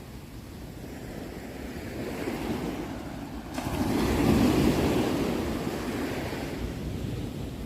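Ocean waves breaking and washing on a shore, one wave swelling up about four seconds in and slowly ebbing away.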